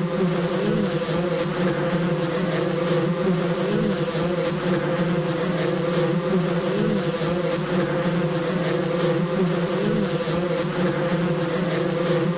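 A swarm of wasps buzzing: a steady, dense drone of many wings with a low hum and a wavering edge.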